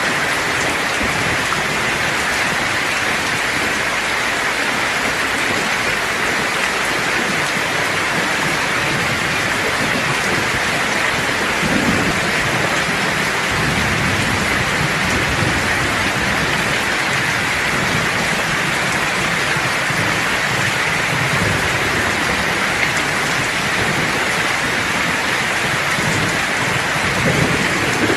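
Steady rain hissing and pattering, with low thunder rumbling underneath from about twelve seconds in for several seconds, and again briefly near the end.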